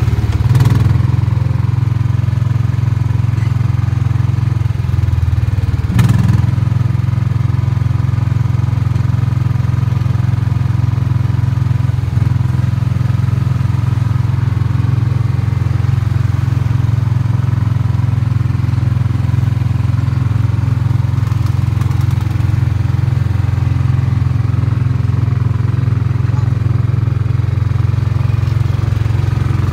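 Small gasoline engine of an amusement-park antique car running steadily with a low drone, heard from the seat as the car drives along. A single short knock sounds about six seconds in.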